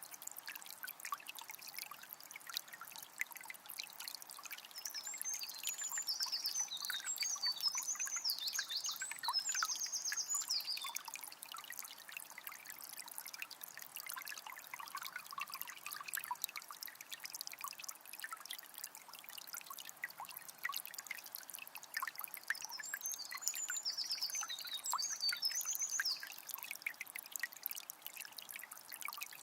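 Water of a small spring trickling steadily. A songbird sings two runs of quick, high repeated notes, the first about five seconds in and the second in the last third.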